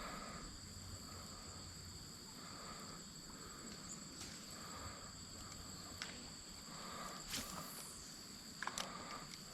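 Faint, steady high-pitched insect chorus, with a softer chirp repeating about once a second underneath. A few light clicks and knocks come in the second half.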